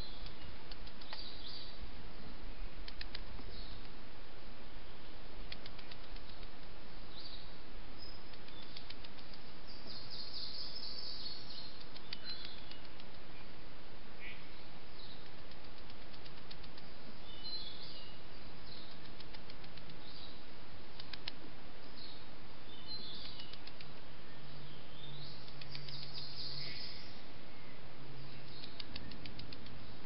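Birds chirping and calling in rainforest, many short high notes and brief call phrases throughout, over a steady hiss.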